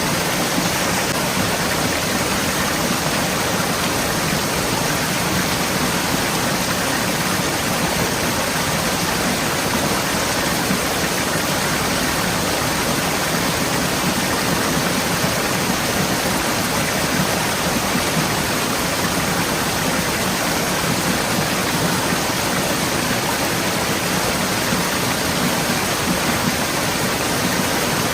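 Forest stream flowing, a steady rushing and splashing of water.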